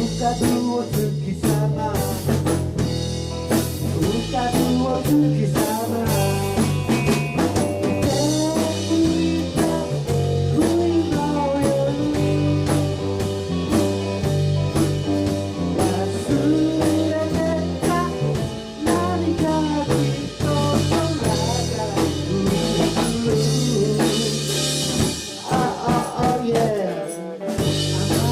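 A rock band playing, with a drum kit keeping a steady beat under a moving bass line and a melody from guitar and a singing voice.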